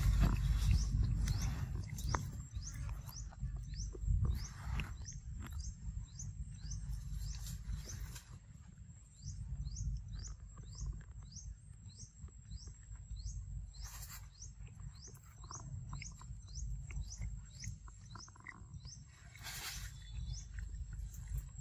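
A bird repeating short rising chirps, about two a second, over a steady high-pitched whine and a low rumble.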